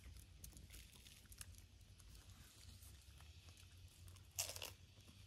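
Near silence: faint outdoor background with a low rumble and scattered small clicks, and one brief louder rustle or crackle a little over four seconds in.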